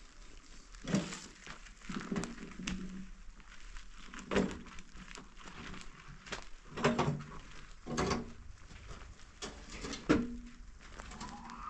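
Irregular knocks and thuds, about six over the stretch, some followed by a short low scraping tone.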